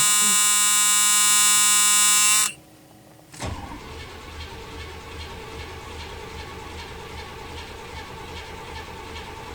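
A 1978 Pontiac Bonneville's dashboard warning buzzer sounds as a steady tone for about two and a half seconds and stops. About a second later a click comes, and the starter cranks the 301 V8 in an even rhythm for about six seconds without it catching. This is a cold start after a month of sitting, on the automatic choke.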